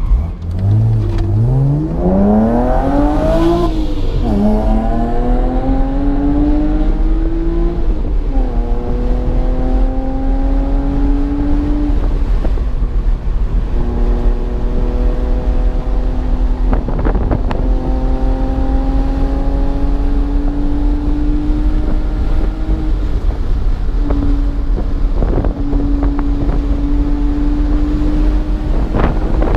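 BMW car engine accelerating hard from a start, its note climbing and dropping back at two upshifts in the first nine seconds or so, then held at fairly steady revs under a constant low road and wind rumble.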